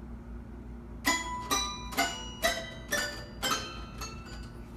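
A string of about eight struck, ringing notes at uneven half-second intervals, each sharp attack fading out, like a small toy instrument being tapped.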